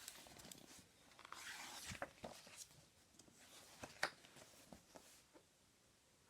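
Faint rustling of paper book pages being turned and handled, with a few soft clicks and taps, against quiet room tone.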